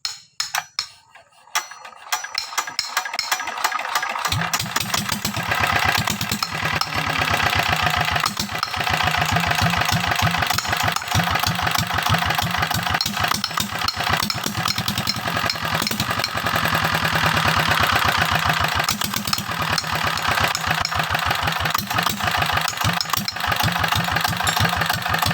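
Yanmar TS 80 single-cylinder diesel engine running with the throttle opened, a fast, even knocking beat of firing strokes. It is thin and clicky at first, and the deep low beat comes in sharply about four seconds in, then holds steady.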